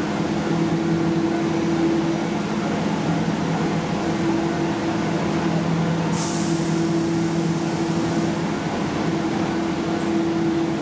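Keihan electric train standing at a station, its equipment giving a steady low hum of several tones that fade and return, with a brief hiss of air about six seconds in.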